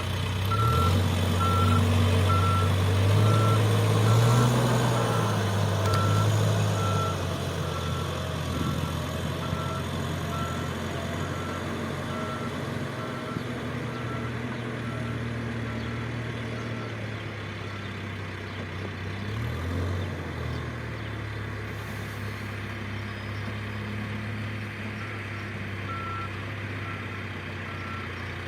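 An earthmoving machine's engine running and changing speed under load, with its reversing alarm beeping at an even pace. The beeping stops about halfway through and starts again near the end.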